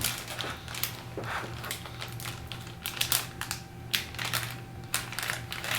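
A toy blind bag being handled and opened, crinkling and crackling with irregular small clicks.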